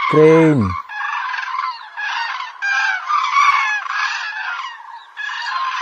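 Several cranes calling together, their calls overlapping in a continuous, broken chorus.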